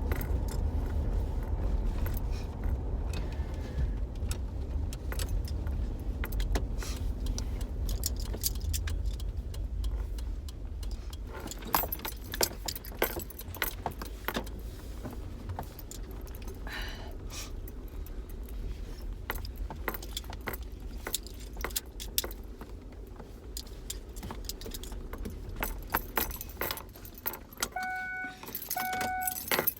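Inside a car: a steady low road and engine rumble with keys jangling and rattling over it. The rumble dies away near the end, and two short beeps sound about a second apart.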